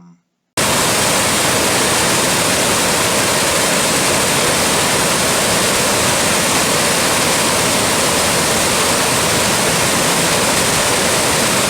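Stream water flowing, a loud, even rush with no distinct splashes; it cuts in abruptly about half a second in and holds steady.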